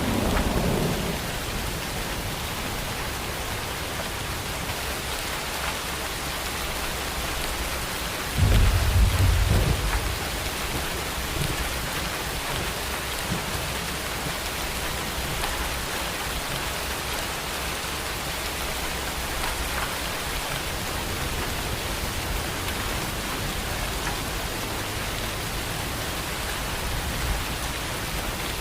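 Steady heavy rain falling. A thunder rumble fades out in the first second, and a louder low roll of thunder breaks about eight seconds in and dies away over two seconds.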